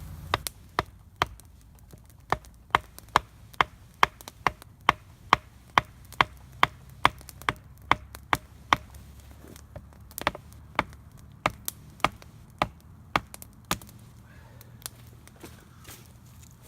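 A knife chopping, striking a hard surface in a steady run of sharp taps about two to three times a second. The taps thin out to a few scattered ones near the end.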